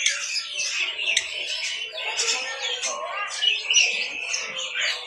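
Many caged birds chirping and squawking at once, their short, high calls overlapping without a break, with a few sharper, louder squawks among them.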